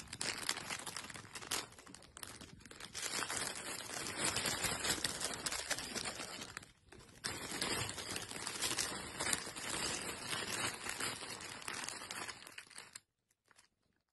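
Crinkling, rustling noise in irregular stretches with brief pauses, stopping about a second before the end.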